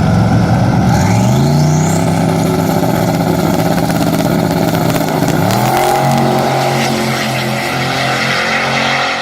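Twin-turbo 6.0 L LQ4 V8 revving up from idle about a second in and holding a steady pitch, with a thin rising whistle as it climbs. About five and a half seconds in it steps up to a higher steady pitch.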